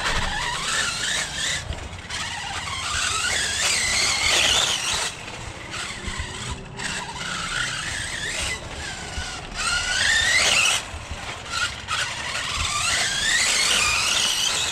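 Radio-controlled truck's 4000 kV HPI brushless motor on a 2S LiPo whining as the throttle is worked, its pitch sweeping up and down in several runs. The drivetrain sounds squeaky and noisy, which the owner thinks may mean the diffs need inspecting, though the motor pulls smoothly without cogging.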